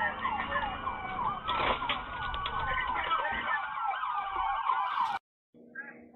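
Emergency vehicle siren in a fast yelp, its pitch sweeping up and down several times a second over road noise. It cuts off abruptly about five seconds in.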